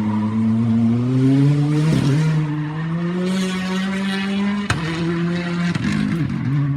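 Rally car engine running hard under load, its pitch climbing and then breaking twice as the car shifts gears. A sharp crack comes about five seconds in.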